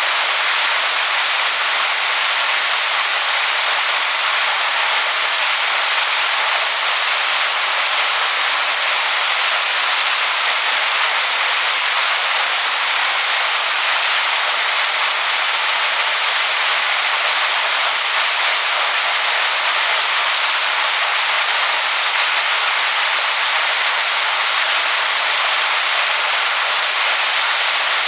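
Waterfall splashing onto stones: a steady, unbroken hiss of falling water, bright and high-pitched with almost no low rumble.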